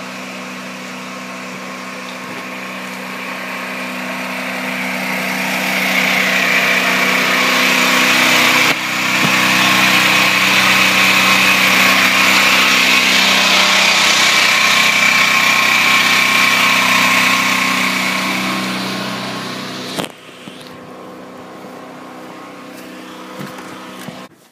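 Gasoline generator engine running steadily while powering household loads, growing louder over the first several seconds and fading away near the end. A sharp knock comes about 20 seconds in, after which the engine is much quieter.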